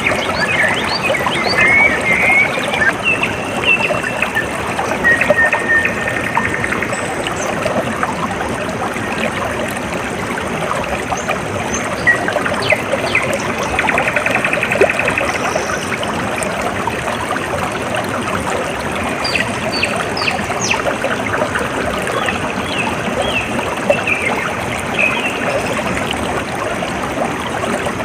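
Water trickling and splashing steadily, with birds chirping and trilling over it: a cluster of calls in the first few seconds, a buzzy trill near the middle, and more chirps in the second half.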